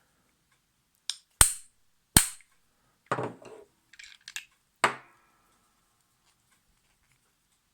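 Hammer tapping on a vintage Necchi sewing machine's hand wheel assembly to drive out its bearing: two sharp metal strikes between one and two seconds in, then a few lighter knocks and clicks, and a last strike near five seconds that rings briefly.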